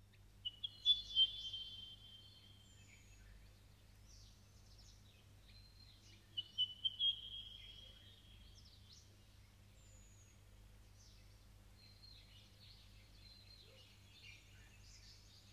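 Birds chirping and twittering, with two louder bursts of song, one near the start and one about six seconds in, and fainter calls between, over a low steady hum.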